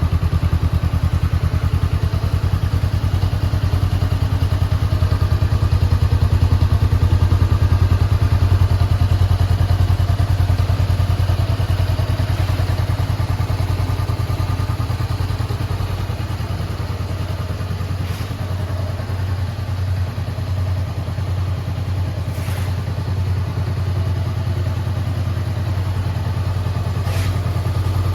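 Honda 400X's 399 cc parallel-twin engine idling steadily with an even pulse and no revving. It runs a little softer for a stretch past the middle.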